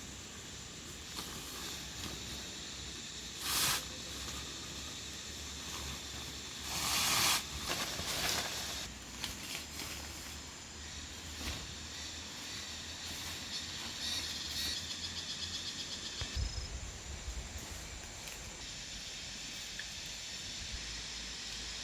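Outdoor forest ambience: a steady high hiss with insects trilling. A few short rustles come about 3.5 and 7 seconds in, and a fast pulsing trill comes in around the middle.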